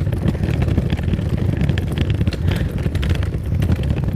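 Wind rumbling and buffeting on the microphone during an outdoor walk, with irregular light clicks and rustles above it.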